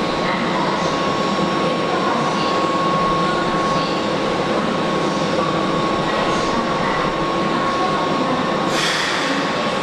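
Keihan 5000 series electric commuter train standing at an underground platform, its onboard equipment running with a steady hum and a thin high whine. About nine seconds in comes a short hiss of air, the brakes releasing just before it pulls away.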